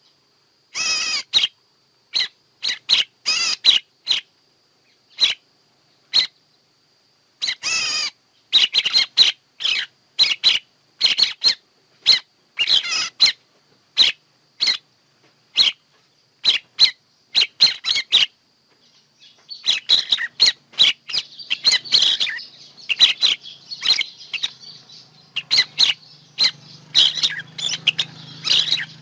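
Songbird calls used as a trapping lure: short chirping calls repeated one to a few a second with gaps between them. From about two-thirds of the way in they turn into a denser chorus of overlapping calls.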